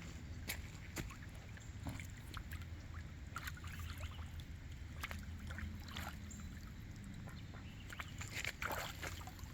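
Faint water splashing and sloshing of waterfowl moving in a pond, with scattered small ticks over a low steady rumble. There is a brief louder splashing flurry near the end.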